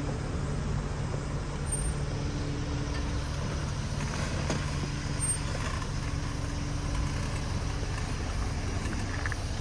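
Off-road vehicle's engine and drivetrain running steadily with a low hum while driving.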